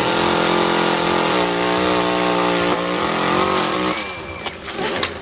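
Small engine, most likely a chainsaw, running steadily at high speed. Its pitch sags a little in the middle and comes back up, then it stops about four seconds in. A few sharp cracks follow near the end.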